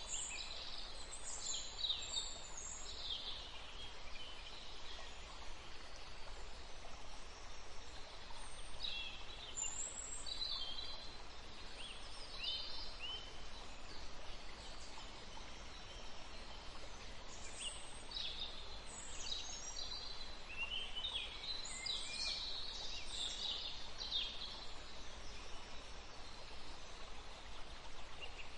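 Small birds chirping in scattered short calls over a steady background hiss, busiest in several clusters.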